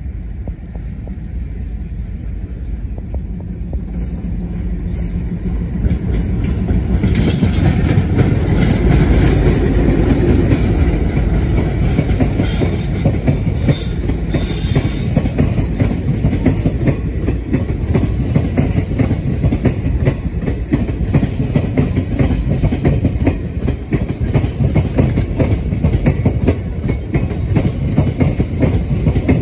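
Diesel-hauled express train passing at speed. The locomotive's engine and the wheel noise grow louder over the first several seconds as it approaches and goes by. Then a long rake of passenger coaches runs past with a steady, rapid rattle of wheels on the rails.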